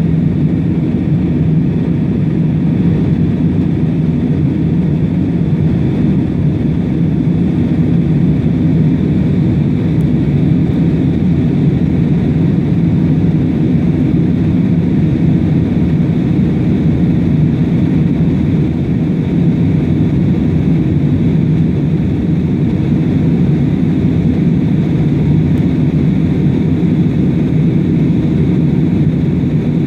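Airplane engines running with a steady, unchanging low rumble and a faint high whine above it.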